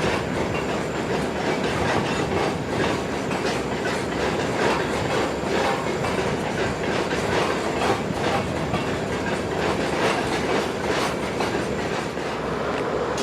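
Canadian National freight train rolling past, a steady rumble with the wheels clicking over rail joints.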